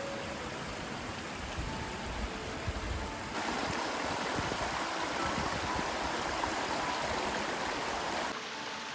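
Running water of a stream, a steady rushing that gets louder about three and a half seconds in and drops back near the end, with soft background music notes over it.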